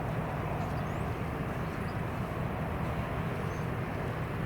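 Steady jet airliner engine noise, an even rumble that holds at the same level without rising or falling.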